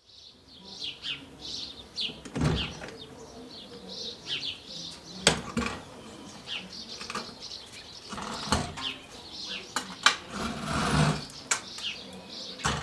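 Small birds chirping again and again, with several sharp knocks and thumps now and then that stand out as the loudest sounds.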